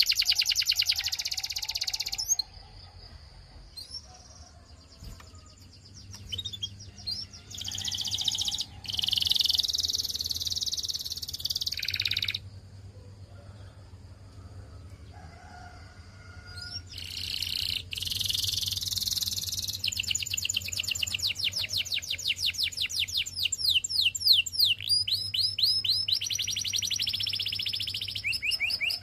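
Canary singing in phrases of fast trills made of rapidly repeated sweeping notes. The song breaks off twice for a few seconds, then resumes as a long run of rapid trills.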